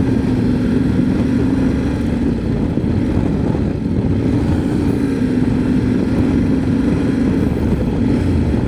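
Motorcycle engine running at a steady cruise, its pitch sagging slightly about halfway through and coming back, over a continuous low rush of wind and road noise.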